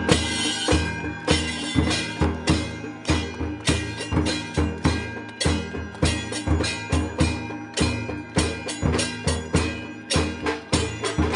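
Temple aarti percussion: a dhol drum and bells struck over and over in a fast steady rhythm, about two to three strikes a second, with the bells ringing on between the strikes.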